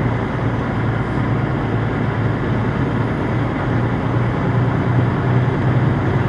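Steady low rumble of idling diesel truck engines, with an even hum that does not change.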